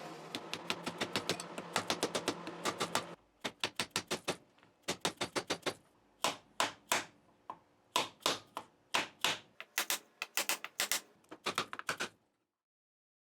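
Frets being hammered into the fingerboard of a vintage Martin D-18 acoustic guitar: quick clusters of light, sharp taps, several blows per fret. The taps cut off suddenly near the end.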